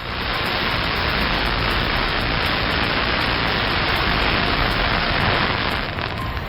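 A steady, loud hiss like static that starts abruptly and eases slightly near the end.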